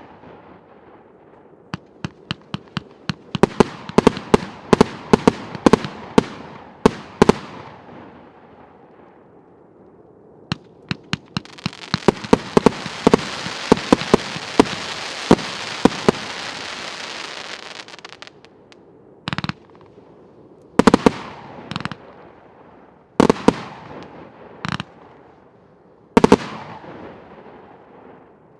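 A 1.2-inch straight-firing firework battery (cake) going off: a rapid volley of sharp shots, then a steady hiss lasting about six seconds, then single loud bangs a second or two apart.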